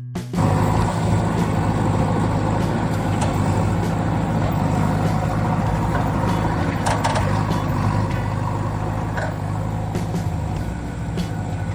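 A vehicle engine running steadily at an even pitch, with a few light clicks and knocks around seven seconds in and again near nine seconds.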